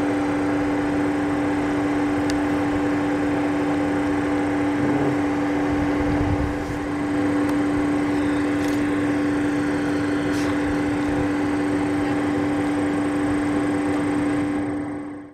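A steady mechanical hum at one constant pitch, with noise under it, unchanged throughout and cut off abruptly at the end.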